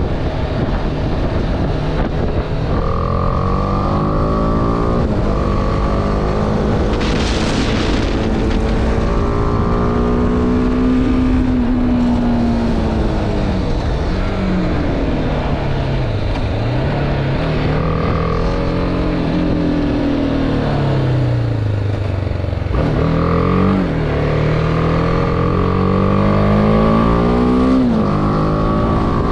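BMW G310R's single-cylinder engine running under way, its revs rising and falling again and again as the rider goes through the gears, over a steady rumble of wind and road. A short burst of hiss comes about seven seconds in.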